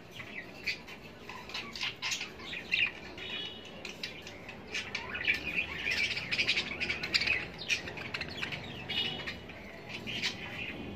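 Small birds chirping repeatedly: short high calls in quick runs, with a brief repeated trilled note now and then.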